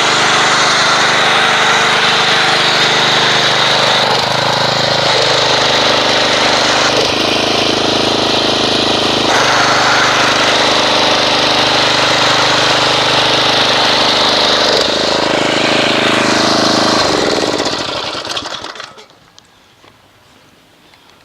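Pressure washer running while spraying car-wash foam through an MTM foam cannon, a steady motor hum under a loud spray hiss, its pitch shifting a few times. Near the end the motor winds down and stops.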